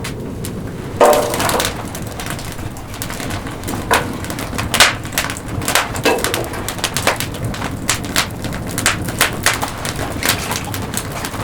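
Wood campfire crackling, with frequent sharp pops and snaps that come thicker in the second half.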